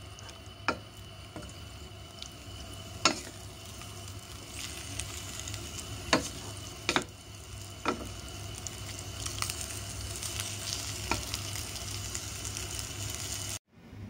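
Okra, squash and bell pepper sizzling in a stainless steel pot as a wooden spoon stirs them, with about six sharp knocks of the spoon against the pot. The sizzle grows louder through the middle and cuts off suddenly near the end.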